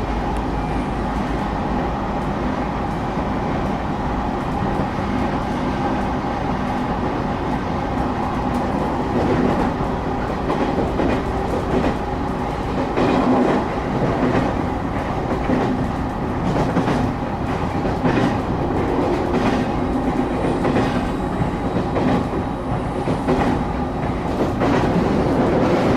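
Passenger train running, heard from inside the carriage: a steady rumble and hum, with the wheels clacking over the rail joints. The clacking becomes frequent from about ten seconds in.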